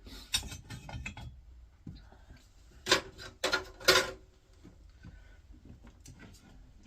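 Small parts being handled and set down during a hand teardown: a run of light clicks, then three sharper knocks about half a second apart near the middle, and a few faint ticks after.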